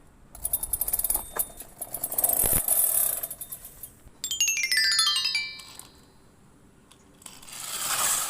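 Electronic sound effects: a sparkly, crackling jingle, then a quick falling run of bright beeping tones, then a swelling whoosh near the end.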